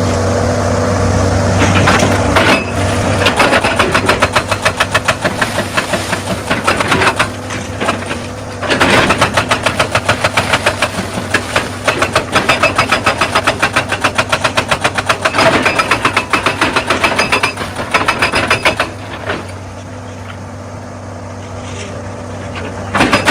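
Excavator's diesel engine running under a hydraulic rock breaker hammering stone in rapid, evenly spaced blows. The hammering starts a few seconds in, breaks off briefly, and stops for a few seconds near the end, leaving only the engine, before starting again.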